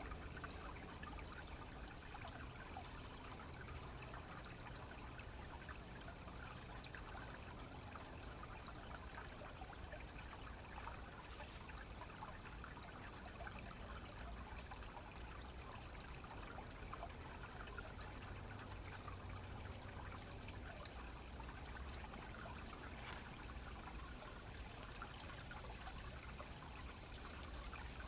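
A clear stream running and trickling steadily over stones.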